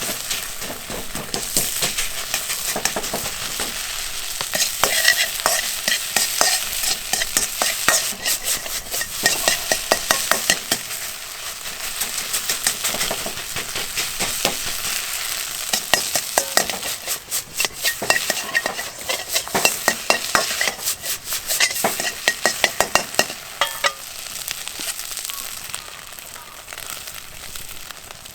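Fried rice sizzling in a hand-hammered iron single-handled wok, stirred and scraped in quick runs of strokes that come thickest about a third of the way in and again past halfway, then easing off near the end.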